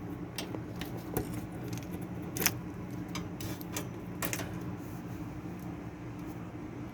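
Scattered light clicks and rattles of a washing machine's plastic wire harness and clips being worked out of their groove by hand, the sharpest click about two and a half seconds in, over a steady low hum.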